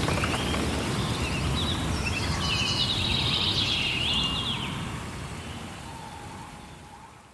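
Rain-forest ambience: a steady wash of rain with birds chirping for a couple of seconds in the middle, all fading out toward the end.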